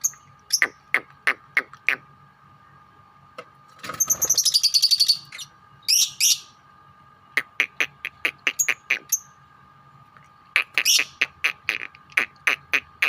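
Several lovebirds calling together in bursts of sharp, shrill chirps. About four seconds in comes a fast rattling run of calls lasting over a second, the chattering 'ngekek'. A faint steady hum runs underneath.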